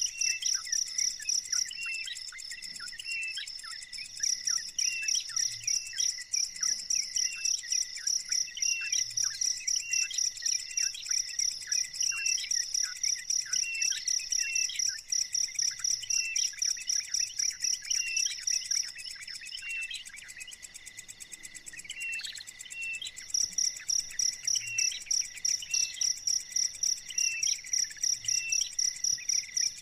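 Insect chirping, likely a cricket, in a fast, high, regular rhythm that breaks off briefly near the start and for a few seconds in the middle. Short bird chirps repeat about every second and a half.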